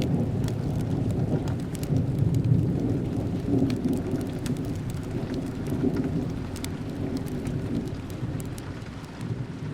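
Steady rain with a low rolling rumble underneath and scattered sharp crackles of a wood fire; the rumble eases toward the end.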